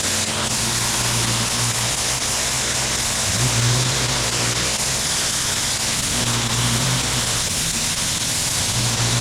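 Gas-engine pressure washer running steadily, its water jet hissing against the pavers, with the engine's low hum underneath.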